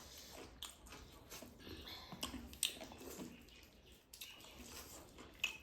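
Quiet eating sounds: chewing and lip smacks, with soft clicks scattered about a second apart.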